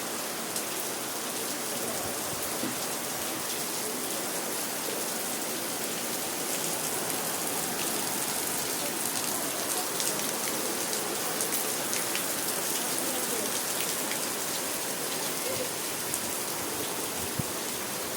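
Steady rain falling in a storm, an even dense hiss with scattered sharper drop taps.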